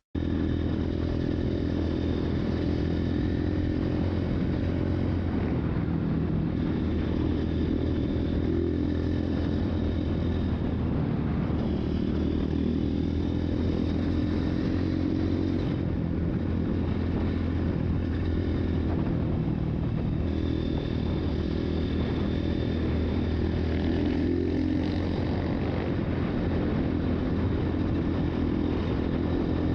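Dirt-bike engine running continuously under way, its pitch rising and falling a little as the throttle changes.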